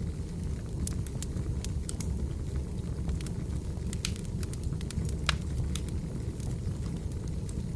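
Firewood burning: scattered sharp pops and crackles over a steady low rumble, with a louder pop a little past five seconds in.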